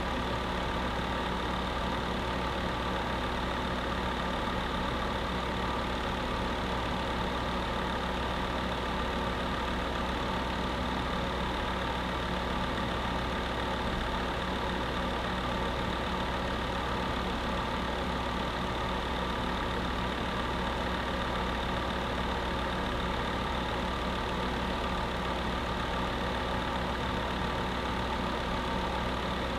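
Space heater running: a steady, unchanging whir with a constant low hum.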